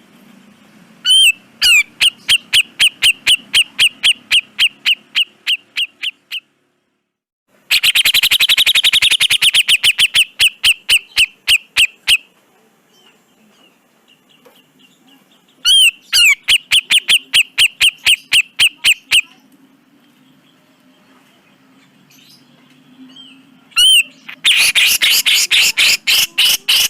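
Grey-cheeked bulbul (cucak jenggot) calling in four rapid rattling series. Each series opens with a swooping note, then runs into fast repeated strokes, about four to eight a second, and lasts some four seconds. A faint low hum runs beneath.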